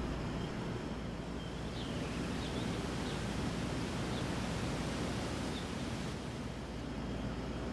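Steady outdoor background noise with a low hum, and a few faint short high chirps scattered through the middle.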